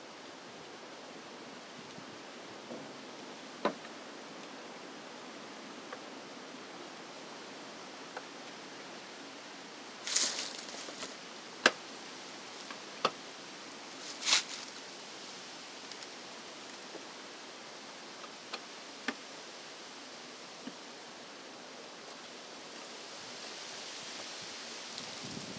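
Scattered sharp clicks and clunks of hand tools and electrical parts being handled, over a steady hiss. The loudest come about ten and fourteen seconds in.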